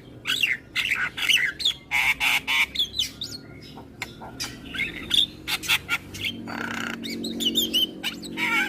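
Javan myna (jalak kebo) singing: a fast, varied string of sharp chips, gliding whistles and harsh squawks.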